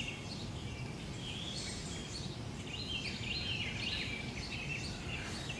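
Several small birds chirping and singing in quick, overlapping phrases over a steady low background rumble.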